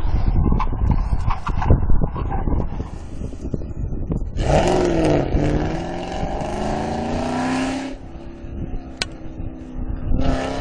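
A sports car's engine accelerating hard as it drives past, its pitch dipping briefly and then climbing steadily for about three seconds before dropping back. Low rumbling noise comes before it, and another engine starts to rise near the end.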